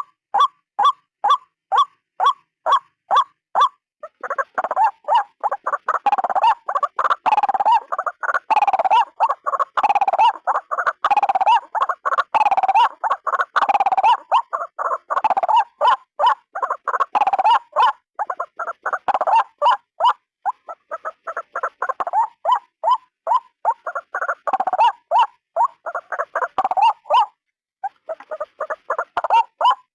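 White-breasted waterhen (ruak-ruak) calls repeated rapidly: a steady run of short calls about three a second, breaking about four seconds in into a denser, louder stream of harsh calls that pauses briefly near the end.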